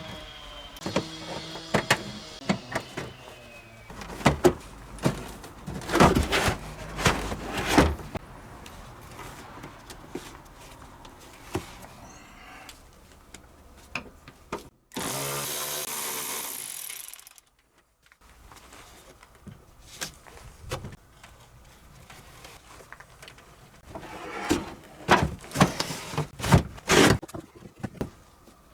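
Workshop work on a car's underbody: tools clicking and clanking against metal parts in scattered knocks, with a power tool running for about two and a half seconds midway.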